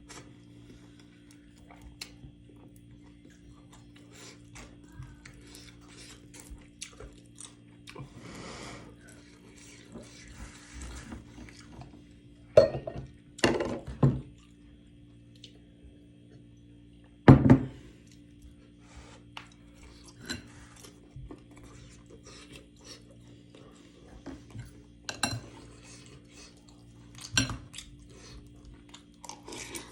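Cutlery clicking and scraping against a dish during a meal, in scattered short knocks, a few of them much louder, with a steady low hum underneath.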